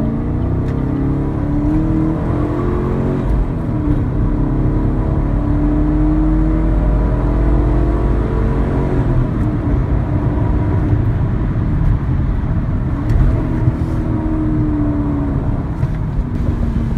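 Chevrolet Camaro SS's 6.2-litre LS3 V8 running under way. Its pitch rises as it pulls and drops back several times, as the manual gearbox is shifted or the throttle eased.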